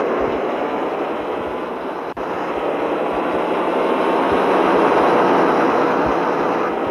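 Mitsubishi Fuso truck driving with its cargo bed empty: a steady, loud mix of engine and road noise, with a brief dropout about two seconds in.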